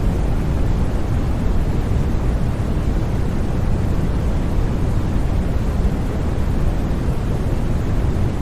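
Steady, unbroken white noise for sleep, a deep even rushing hiss heaviest in the low end, with no changes or sudden sounds.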